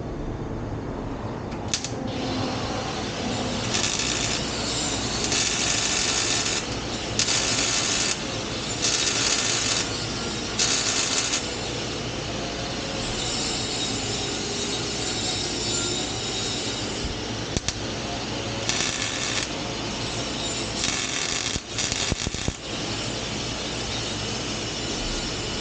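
Exhaust pipe being welded: a string of short welding bursts, each a sizzling crackle lasting under a second, in two clusters with a gap between them. A steady low hum runs underneath.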